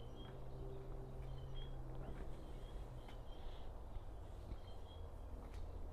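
Quiet background with faint, short high-pitched bird chirps every second or so, and a low hum that stops about halfway through.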